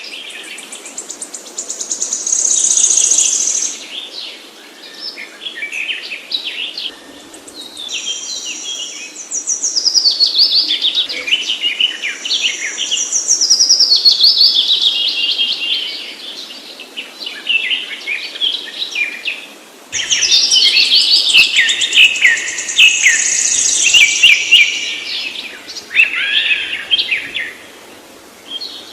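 Songbirds singing: a busy run of high, varied phrases made of quick falling notes and trills, with fresh phrases starting every few seconds.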